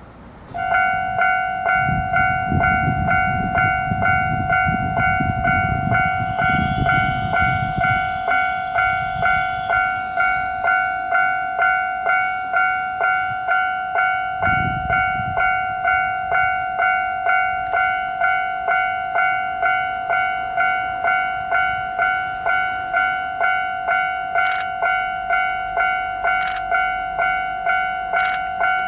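Japanese railway level-crossing warning bell ringing, an even 'kan-kan' at a little under two strikes a second, starting about half a second in. A low rumble sits under it for the first several seconds.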